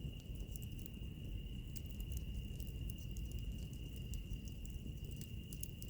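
Wood fire crackling, with many small sharp pops scattered irregularly over a low rumble, under a steady high-pitched insect trill.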